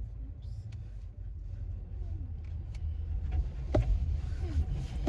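Car cabin noise while driving: steady low road and engine rumble. A dog whines faintly a couple of times, and there is a sharp click about four seconds in.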